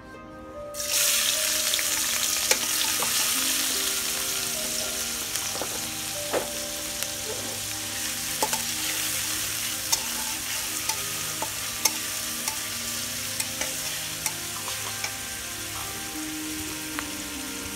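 Sliced onions and green chillies hit hot oil in a steel karahi about a second in, setting off a sudden loud sizzle that slowly eases. Through the sizzle a metal spatula clicks and scrapes against the pan as they are stirred.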